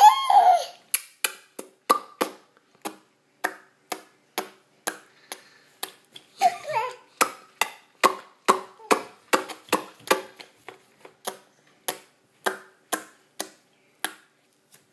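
Baby making a long string of short clicking, croaking sounds in the throat or mouth, about two to three a second, with a brief squeal at the start and a few short squeaky vocal bits midway.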